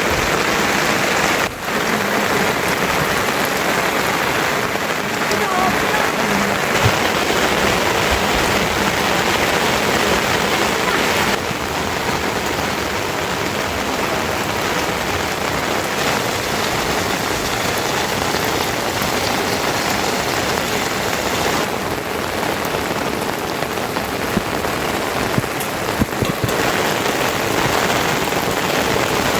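Rain falling steadily, a dense even hiss, its tone shifting slightly a few times.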